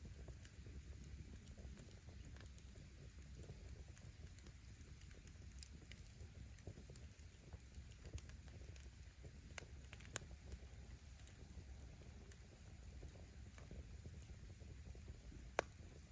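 Wood fire burning: a low, steady rumble with faint, scattered crackles of the firewood, and one sharp pop near the end.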